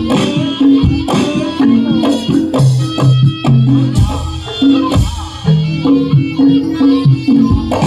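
Traditional Javanese jaranan music: drums and pitched percussion playing a lively repeating pattern.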